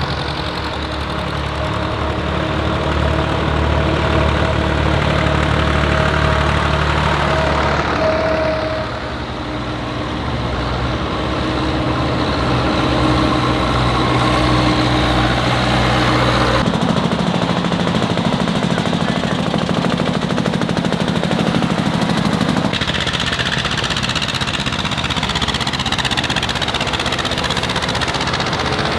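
Diesel tractor engines running as tractors drive past in a slow procession, the engine note changing abruptly twice.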